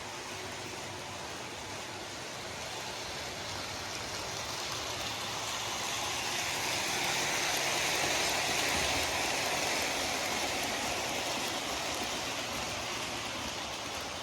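Lionel C&O 0-6-0T model locomotive running on the layout track with rolling stock in tow: a steady whirring rumble of its motor and wheels on the rails that swells to its loudest about halfway through and then fades.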